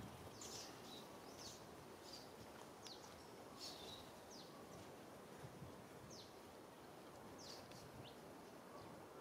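Faint small-bird chirping: about a dozen short, high, falling notes scattered irregularly over a soft steady outdoor hiss.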